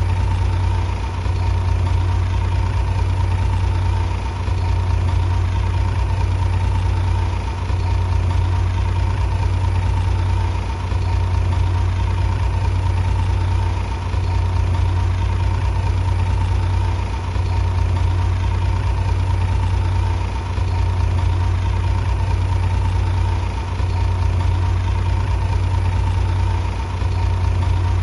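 Heavy diesel engine running steadily with a deep hum. Its sound dips briefly about every three seconds.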